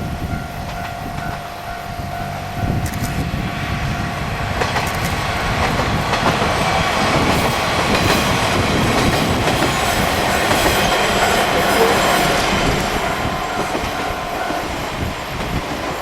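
JR Kyushu's 'Aru Ressha' sightseeing diesel railcar train passing, its wheels clacking on the rails. The sound builds for several seconds, is loudest a little past the middle, then fades as the train moves away.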